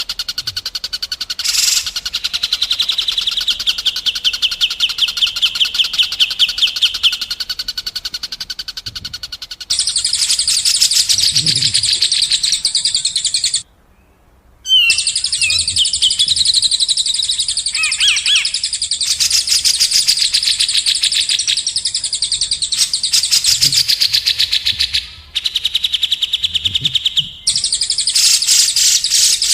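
Recorded songbird song: long, very fast high-pitched trills and chattering phrases, broken by a short gap about halfway through.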